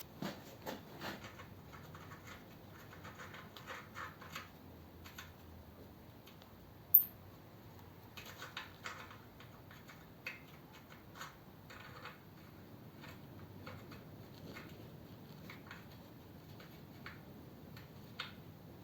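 Faint handling sounds of hand tools and parts being worked: scattered light clicks, taps and scraping, with one sharp click about seven seconds in.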